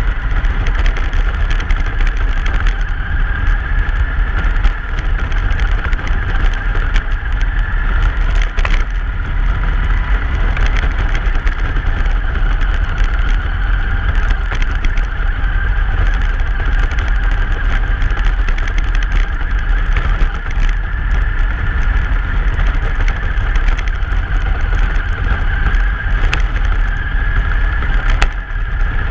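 Truck driving on a snowy road: a steady loud rumble of engine, tyres and wind noise, with a few light knocks.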